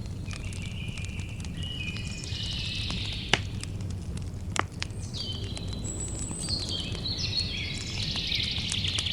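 Campfire burning with a steady low rumble and scattered sharp crackles, two of them loud pops. Over it a songbird sings two long phrases of quick high notes stepping down in pitch, one in the first third and one in the second half.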